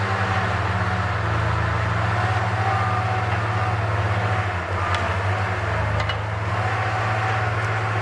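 Tigercat L870C feller buncher's diesel engine running steadily, with a wavering hydraulic whine above the low drone and two short clicks about five and six seconds in.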